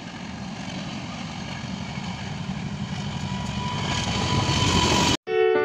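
Diesel-electric locomotive hauling a passenger train as it approaches, the engine's rumble and the train noise growing steadily louder, then cutting off abruptly near the end.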